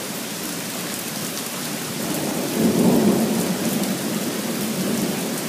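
Rain falling steadily during a thunderstorm. A roll of thunder swells about two and a half seconds in and fades over the next two seconds.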